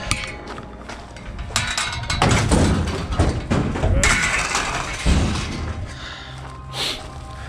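Irregular clatter, rustling and thumps of objects being handled and moved, loudest in the middle, over faint background music.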